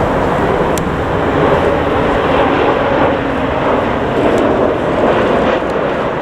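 Jet airliner engines, heard as a steady, loud rush of noise.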